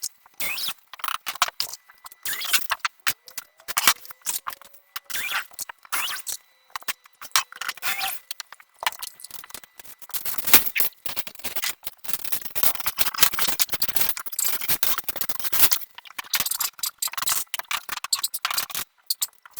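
Irregular scraping, clicking and clattering of hand work with tools and materials, in uneven bursts with short pauses.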